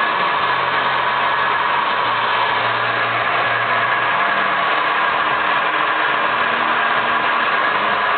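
Hair dryer running steadily, a loud even blowing hum.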